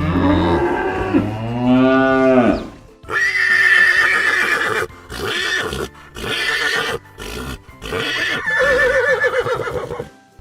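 Horse whinnying several times, each call rising and falling in pitch, with a quavering trill near the end.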